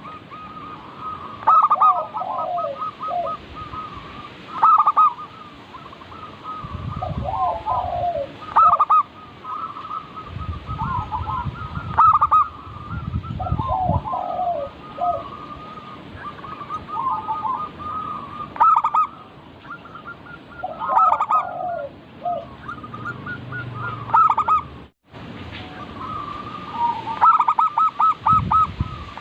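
Zebra doves (perkutut) cooing over and over, a call every couple of seconds: quick stuttering notes followed by falling tails, calls sometimes overlapping, with low rumbles now and then beneath.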